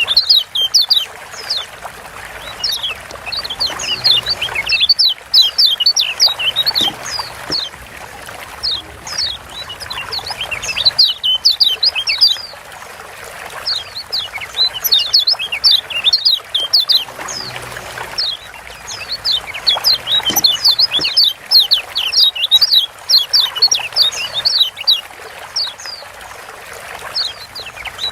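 Kecial kuning (Lombok yellow white-eye) giving rapid bouts of short, high, downward-sweeping 'ciak' chirps, several seconds of dense chirping at a time with brief pauses between bouts, over a steady hiss.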